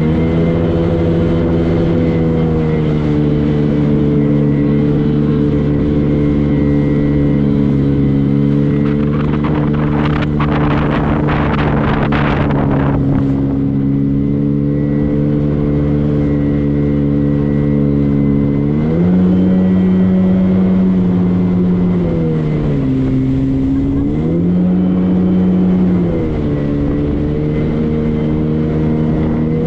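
Motorboat engine running steadily. In the second half its pitch rises and falls several times as the throttle changes. About ten seconds in comes a rush of hissing noise lasting some three seconds.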